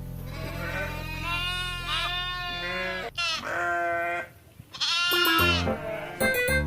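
Goat bleating: about three long, wavering bleats in a row, over background music.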